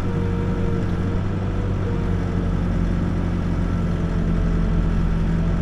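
Backhoe's diesel engine running at a steady speed, heard from the operator's seat, with a faint whine above it that fades about halfway through.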